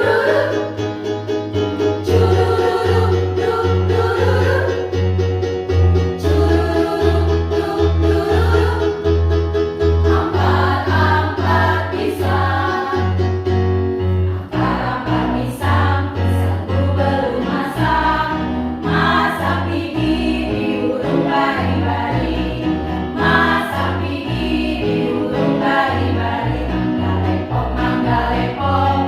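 A choir of many voices singing over instrumental accompaniment with a steady, pulsing bass line.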